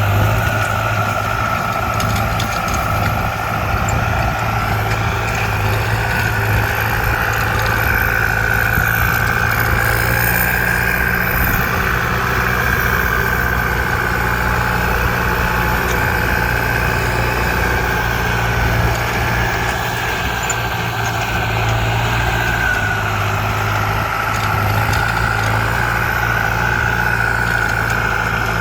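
ZT 155 tractor's engine running steadily, with a high whine over the low engine sound that rises and falls slightly.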